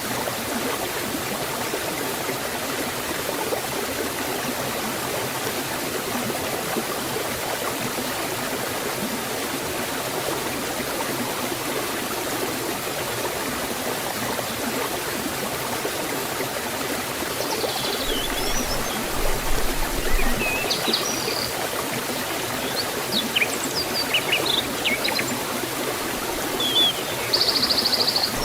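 Waterfall and forest stream water flowing steadily over rocks. In the last third, a few short, high bird chirps sound over the water.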